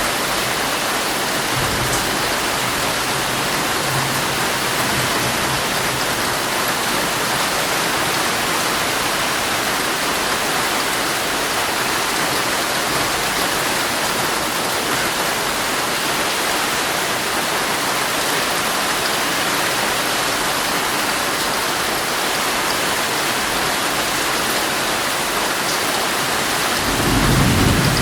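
Heavy rain falling steadily on a tent, heard from inside it, with a low thunder rumble swelling near the end.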